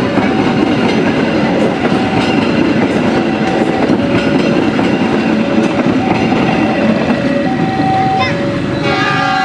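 A passing train, its wheels rattling steadily over the rails with scattered clicks, and a two-note tone alternating in the background. Near the end a fuller chord of steady tones comes in.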